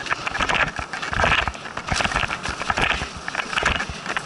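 Excited sled dogs barking in short, repeated outbursts, over a dense scatter of sharp clicks and knocks.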